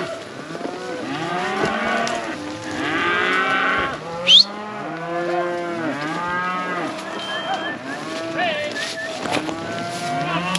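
A herd of beef cows and calves mooing and bawling, many overlapping calls at once. A brief, loud, high rising squeal cuts through about four seconds in.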